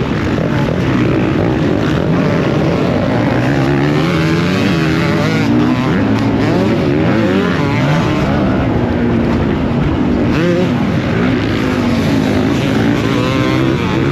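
Motocross bike engines at racing speed, the pitch rising and falling again and again as they rev, shift and back off through the track, with more than one engine heard at once.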